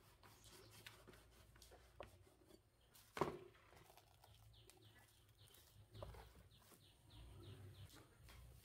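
Near silence with a single sharp knock about three seconds in, then a run of faint, high bird chirps, about three a second, for a few seconds.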